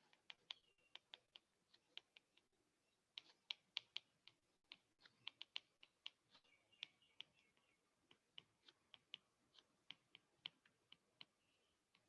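Faint, irregular clicks and taps of a writing implement on a board, about two a second, with near silence between them.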